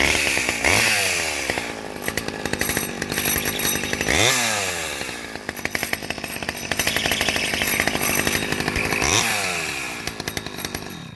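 Vintage Stihl 011 AV chainsaw's small two-stroke engine, about 32cc, running and revved three times, the pitch shooting up quickly each time and then sinking slowly back down. The engine is shut off right at the end.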